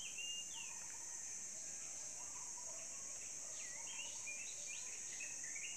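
Steady high-pitched drone of insects, with birds chirping off and on over it.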